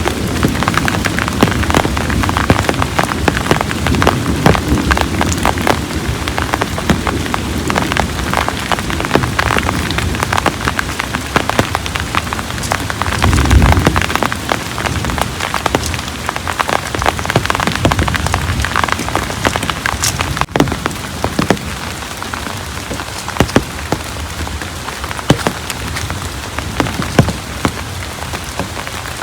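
Heavy rain falling, with a dense patter of individual drops striking close by. A short low rumble about thirteen seconds in.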